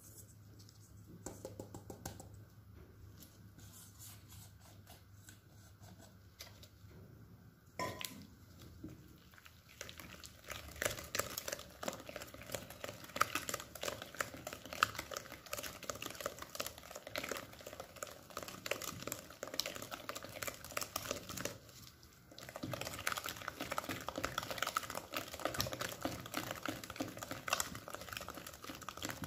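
Plastic packaging crinkling and rustling as it is handled, with a few light clinks of kitchenware. It is quiet at first, then turns into dense crackling about a third of the way in, with a brief pause near the end.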